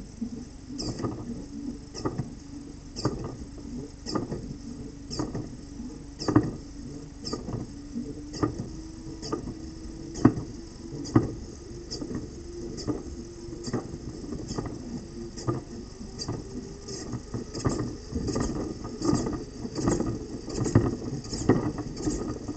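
Solenoid of a small 3D-printed pulse-propulsion device clacking in a regular rhythm, about once a second, quickening to about twice a second near the end, over a steady low hum.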